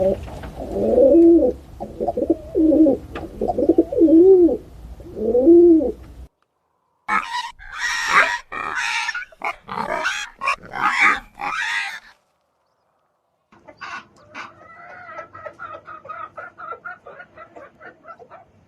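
Farmyard bird calls in three short clips: first a string of low, rising-and-falling cooing calls, then a loud run of chicken clucks and calls, then a quick run of rapid, pulsing calls.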